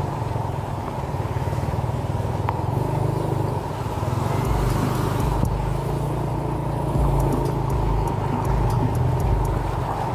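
Motorcycle running steadily on the road, its engine drone mixed with road and wind noise; from about four seconds in, a deeper low noise comes and goes.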